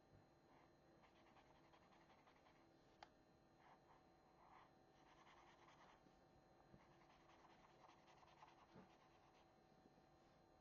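Very faint scratching of an acrylic paint marker's nib colouring in on paper, in a run of short strokes, with a small tap about three seconds in.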